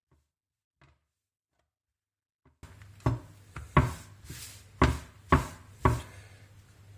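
Near silence with a few faint ticks, then from about two and a half seconds in, five sharp knocks on a hard kitchen surface at uneven intervals over a faint hiss.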